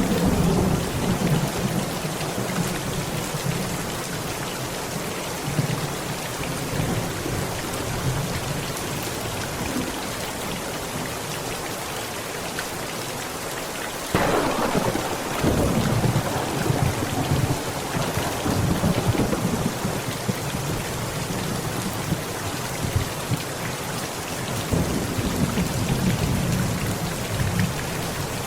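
Heavy rain falling on a tent, with thunder rumbling. About halfway through a sudden louder thunderclap breaks in and rolls on for several seconds, and further low rumbles come near the end.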